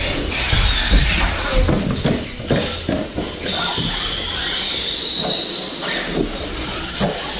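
High-pitched whine of electric RC buggies' brushless motors running on the track, the pitch gliding up and down with throttle. It is mixed with tyre and chassis noise and scattered knocks, and one long steady whine runs through the middle.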